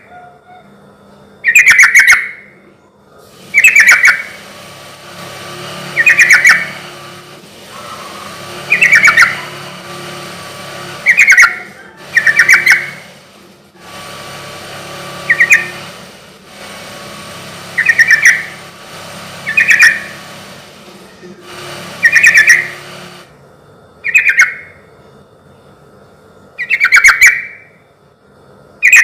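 Yellow-vented bulbul (trucukan) singing a short, loud, bubbly phrase about every two seconds, repeated over and over.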